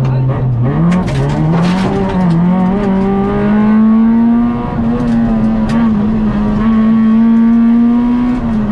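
Peugeot 106 XSi rally car's four-cylinder engine heard from inside the cabin, driven hard. The revs dip sharply near the start, climb back in steps, hold high, then fall away near the end, with a few sharp clicks along the way.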